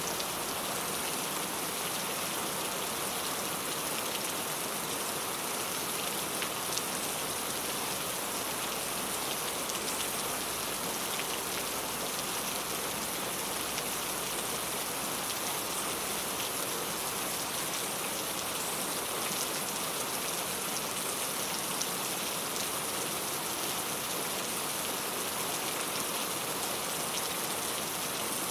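Steady rain falling on a clay tile roof, an even hiss with scattered ticks of individual drops striking the tiles.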